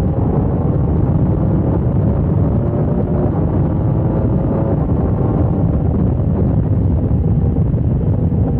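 Wind buffeting the microphone of a motorcycle at speed, a steady loud rush, with the engine note faintly underneath and easing slightly in pitch over the first few seconds.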